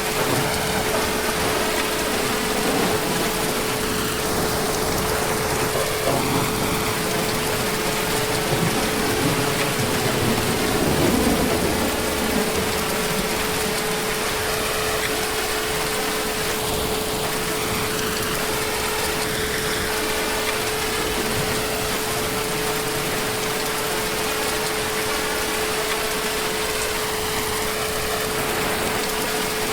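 Heavy rain falling steadily, an even hiss with a steady low hum running under it.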